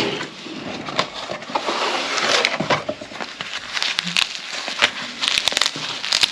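Packaging being handled during an unboxing: rustling and crinkling with scattered small clicks and taps as items are taken out.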